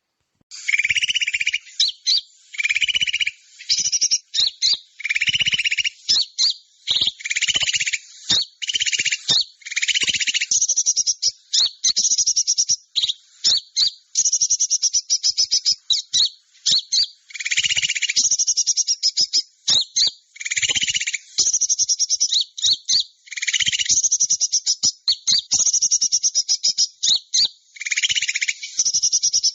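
Bird-lure recording of small birds calling: short, rapid, buzzy trills repeated one after another without pause, some pitched lower and some higher. It is a pikat call played to attract small birds.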